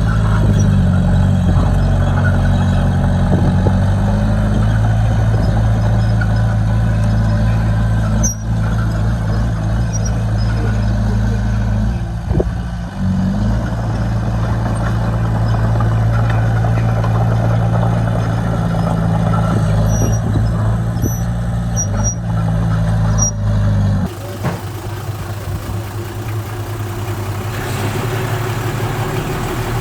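Heavy diesel engine running steadily under load, with a deep even hum. About 24 seconds in, the sound changes abruptly to a quieter engine idling.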